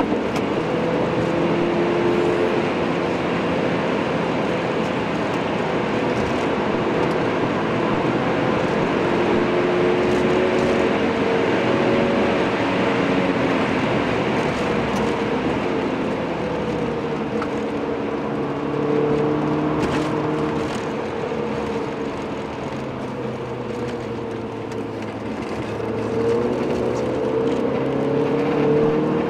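Saab 9000's engine under hard driving, heard from inside the cabin on a race track, its pitch rising and falling as it speeds up and eases off, and swelling louder about two-thirds of the way through and again near the end.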